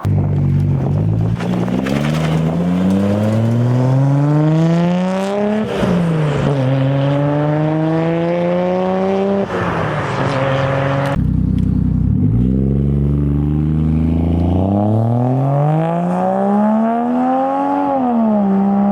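Car engines accelerating hard as cars pull away. The note climbs in pitch and drops at each upshift, once about six seconds in. About eleven seconds in a second car pulls away the same way, shifting up near the end.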